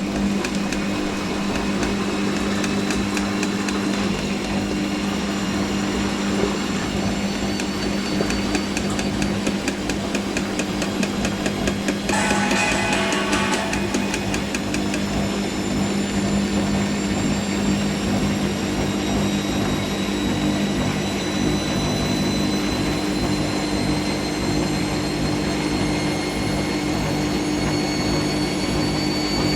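Hoover AAA160 front-loading washing machine spinning, its motor whine rising slowly as the drum speeds up. A short rush of noise comes about twelve seconds in and lasts about two seconds.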